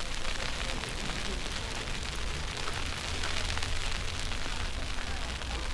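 Steady hiss of an outdoor snowstorm, with wind buffeting the microphone in a low, unsteady rumble.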